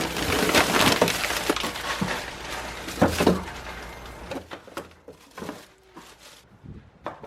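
Frozen food packages and plastic containers being handled: a dense clatter and crackle of knocks and crinkles for the first few seconds, thinning to scattered clicks that fade out.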